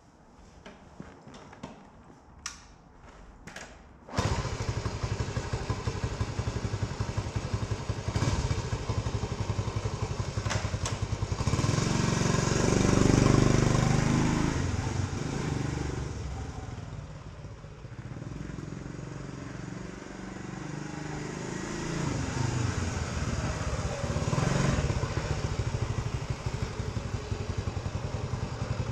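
1970 Honda CT90's single-cylinder four-stroke engine starting from cold: a few knocks, then it catches about four seconds in and keeps running, revving up twice before settling back.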